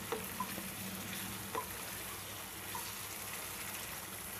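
Marinated mutton tikka pieces frying and sizzling steadily in oil in a nonstick pan, with a few light clicks and scrapes of a spatula stirring them.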